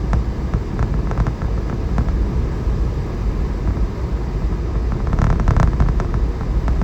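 Steady low rumble of a four-wheel-drive vehicle driving on a snow-covered road, with scattered clicks and a burst of crackling about five seconds in.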